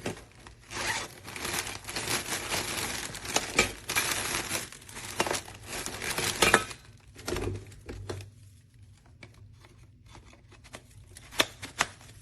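Crinkling and rustling of packaging being handled in irregular bursts, quieter for a while, then a few sharp clicks near the end.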